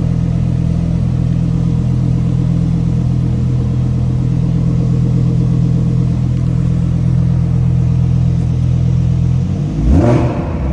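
Lamborghini Huracan Evo's V10 engine idling steadily, then revved once briefly near the end, the pitch rising and falling back.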